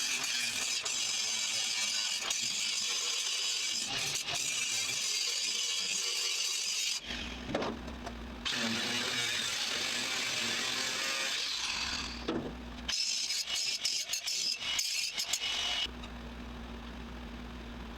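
Metalworking on a car's undercarriage: a harsh, hissing tool noise in three long stretches, stopping about 7 and 12 seconds in and again near the end. In the pauses only a low steady hum remains.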